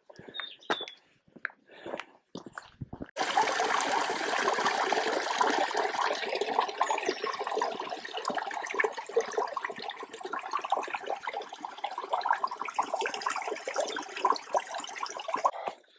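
Running water rushing steadily for about twelve seconds. It starts abruptly about three seconds in and cuts off suddenly near the end, after a few scattered clicks at the start.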